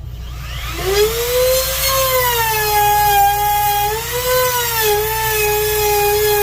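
A high-speed power tool motor spins up with a rising whine about half a second in. It then runs at speed, its pitch sagging briefly now and then as it takes load. A low steady hum sits underneath.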